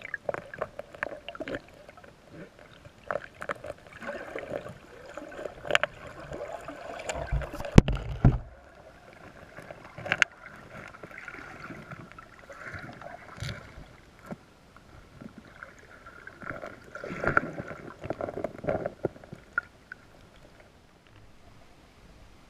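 Creek water gurgling and splashing close to the camera, full of irregular small clicks, with a loud low thump about eight seconds in. It dies down near the end.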